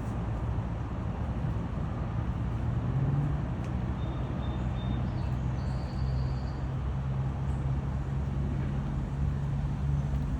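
Steady low engine hum over a noisy rumble, its pitch stepping up slightly about three seconds in.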